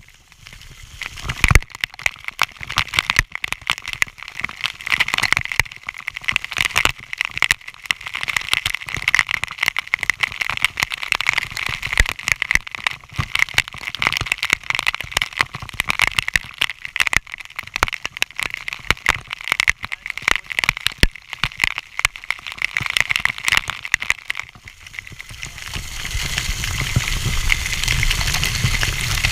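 Waterfall water pouring and splashing: a dense, crackling spatter of spray that settles into a steadier rush near the end.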